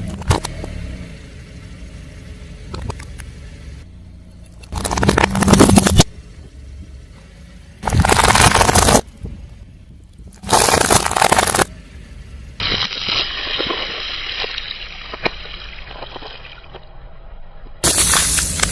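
A car tyre rolling over and crushing objects: four loud, noisy bursts of crunching, each about a second long, separated by quieter gaps. A duller, muffled stretch of crackling comes between the third and fourth bursts.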